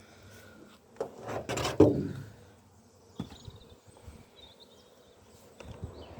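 Wooden beehive parts scraping and knocking as the hive is opened: a loud scrape for about a second, then a single sharp click about three seconds in.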